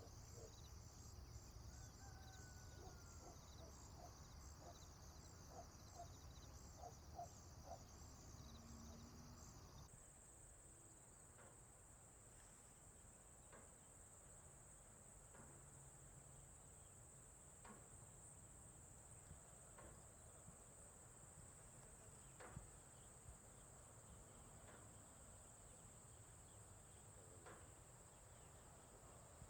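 Faint chirping of insects in a steady high trill, pulsing for the first part. About a third of the way through it changes abruptly to a single higher continuous trill with a few scattered faint clicks.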